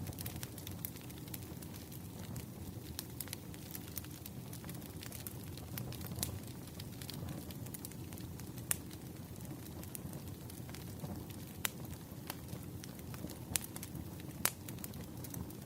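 Campfire crackling: a steady low rumble of burning wood with scattered sharp pops and snaps.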